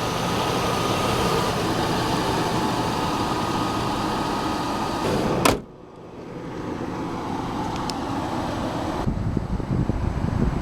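Steady running noise of a 1999 GMC Yukon with its 5.7-litre V8 engine and climate fan going, heard inside the cabin. About five and a half seconds in there is one sharp knock, and the sound suddenly drops much quieter. It builds back to a lower, uneven rumble toward the end.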